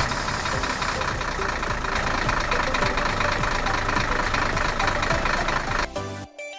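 A small motor running steadily with a fast, even rattle, cutting out for a moment near the end.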